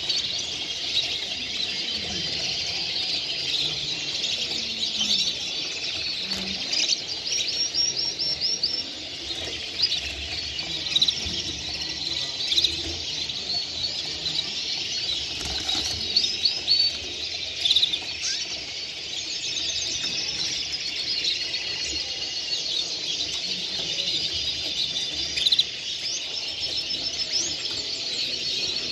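Many caged songbirds singing and chirping at once: a dense, overlapping chorus of quick high notes and trills that never lets up.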